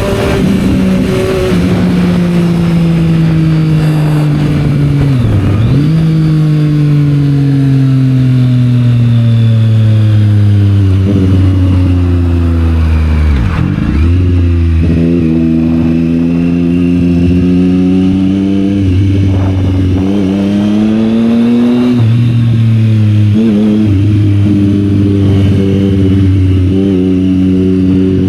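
Triumph Street Triple 765 R's inline three-cylinder engine through a Yoshimura aftermarket exhaust, riding in traffic: engine note falling slowly as the revs drop, with two sharp momentary dips in pitch and a jump up in pitch about three quarters of the way through.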